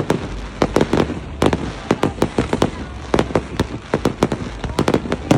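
Fireworks going off: loud sharp bangs and pops in quick, irregular succession, several a second, some with a short echo after them.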